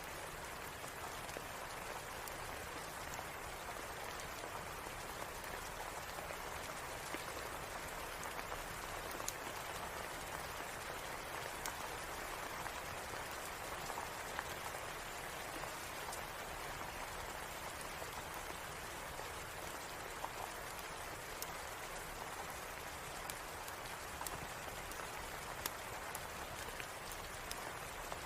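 Steady rain falling, an even hiss with scattered sharp clicks.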